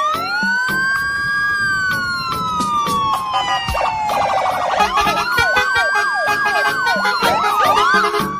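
A siren-like wail that rises, sinks slowly for a few seconds, rises again and breaks into quick up-and-down sweeps near the end, over a music track with a steady beat.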